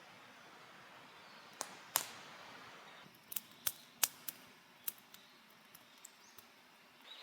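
A dozen or so sharp, irregular clicks and taps over a steady soft hiss, loudest about two seconds in and thinning out after about five seconds.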